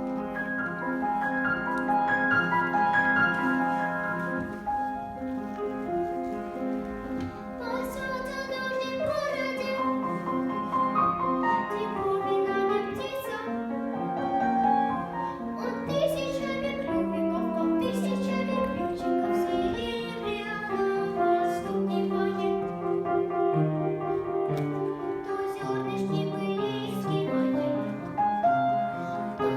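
Piano accompaniment playing an introduction, then a young girl singing the song over the piano from about eight seconds in.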